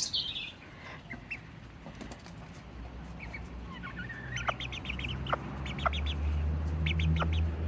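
Serama bantam chickens clucking, short quick calls in little runs starting about three seconds in. A low steady drone builds up near the end.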